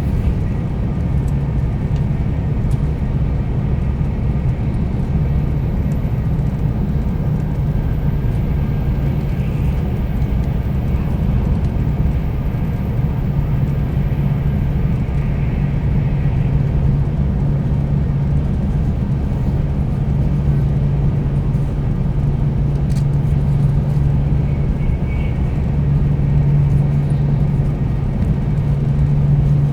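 Interior noise of a 300 series Shinkansen Green car while the train is running: a steady low rumble with a low hum that grows stronger in the second half.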